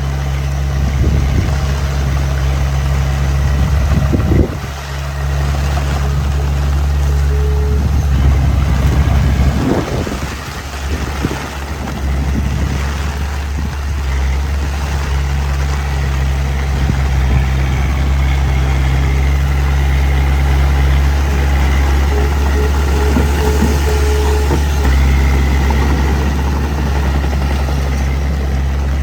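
Heavy diesel engine of earthmoving machinery running steadily at a low, even pitch, with a few short metallic knocks about 4 and 10 seconds in.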